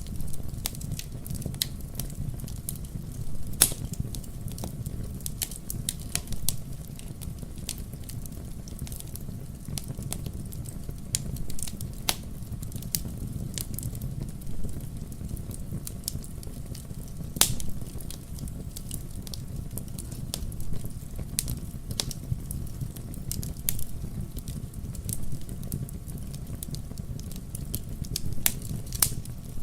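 Wood logs burning in a fireplace, crackling and popping at irregular intervals over a low steady rumble of the flames, with a few louder pops among the small snaps.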